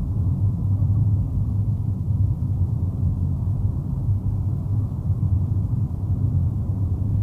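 Steady low rumble of a car on the move, heard from inside the cabin: engine and road noise with no changes.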